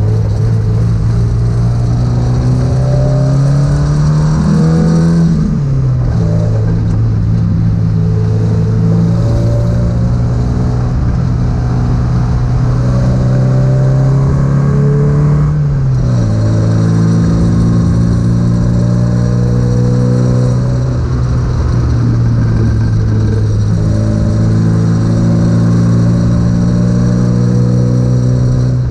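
MGB GTS engine heard from on board under hard acceleration, its revs climbing and then dropping sharply at two upshifts, about five seconds in and again about sixteen seconds in, before running at fairly steady revs, with a steady high whine over the engine note.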